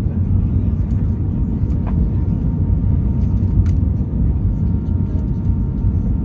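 Steady low rumble of an Airbus A320's engines and rushing air, with a faint, steady whine above it.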